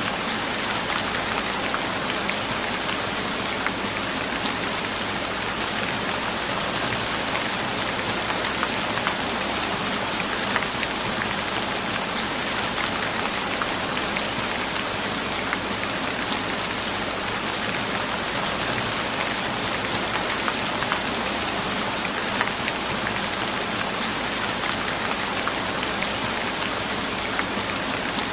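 Steady rain falling, an even hiss dotted with many small, sharp drop taps.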